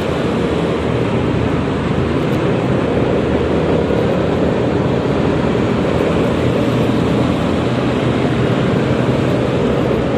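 Steady wind rush and road noise while riding a Yamaha XMAX 300 scooter, with a steady engine hum underneath.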